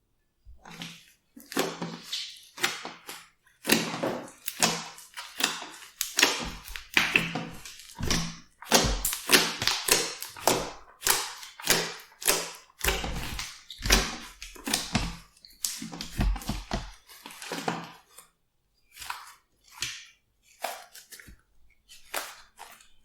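Glossy slime being squeezed and kneaded by hand: rapid, irregular wet squishes and clicks, thinning out over the last few seconds.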